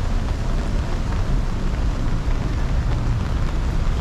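City street noise in the rain: a steady low rumble of passing traffic under an even hiss of rain and wet roads.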